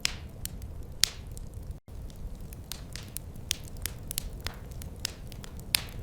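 Wood fire crackling: irregular sharp pops and snaps over a low, steady rumble. There is a momentary dropout a little under two seconds in.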